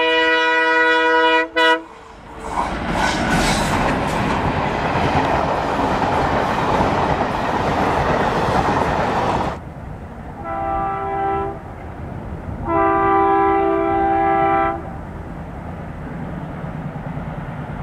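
A train's locomotive horn sounds a long blast, then the train passes with a loud rushing, clattering rumble that stops suddenly about nine and a half seconds in. Two more horn blasts follow, the second longer, over a low steady engine rumble.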